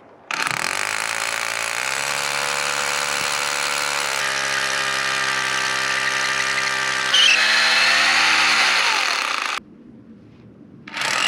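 Power tool motor spinning up, running steadily with a few shifts in speed, then winding down about nine seconds in. It starts up again near the end.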